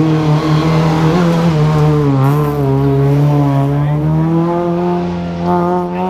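Rally car engine running hard under acceleration, its pitch climbing slowly and steadily through a gear, with a short dip about two seconds in.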